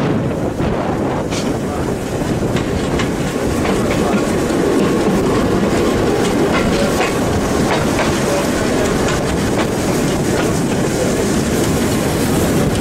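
A heritage steam train's wooden carriage running along the track, heard from on board: a steady rumble of wheels on rails with irregular clicks and knocks as the wheels pass over rail joints.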